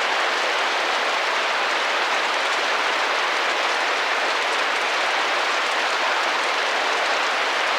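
Steady rain drumming against a window pane: a dense, even hiss that holds at one level, with no single drops standing out.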